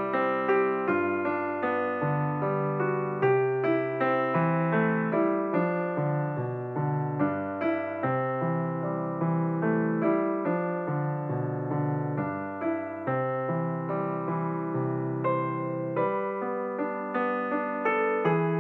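Background piano music: a steady run of notes over changing bass notes.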